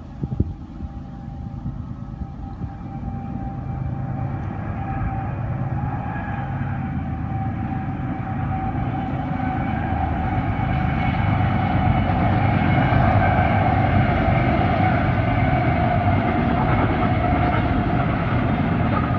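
Train approaching, growing steadily louder over about twelve seconds and then holding loud as it passes, a deep rumble with a steady whine running through it. A brief knock at the very start.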